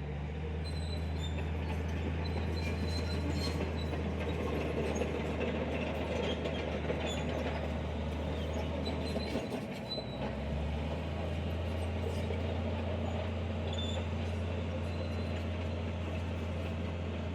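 Heavy diesel earthmoving machinery running steadily under load, with faint high metallic squeaks. The engine note drops out briefly about ten seconds in, then picks up again.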